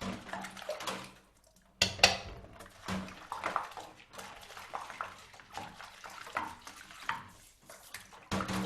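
Dishes being washed by hand: running water with plates and cutlery clinking and clattering in a sink, the loudest clatter about two seconds in.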